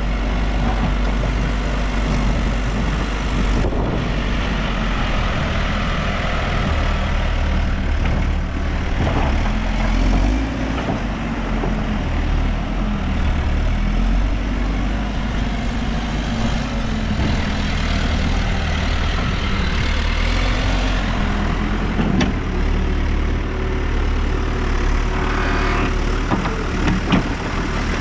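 Diesel engine of a New Holland backhoe loader running steadily, its pitch shifting as the load changes while it works, with a few sharp knocks near the end.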